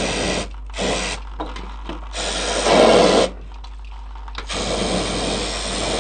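Aerosol brake cleaner hissing from the can in several bursts into a gearbox bearing seat, flushing out metal fragments stuck in the oil. The loudest burst comes about halfway through, and a long continuous spray starts near the end.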